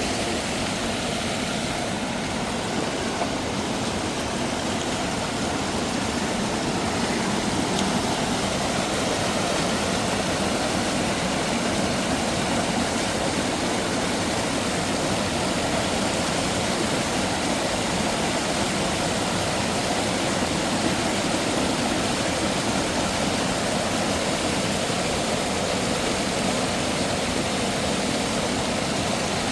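Steady rushing of a waterfall, water cascading over rocks, as an even hiss with no breaks.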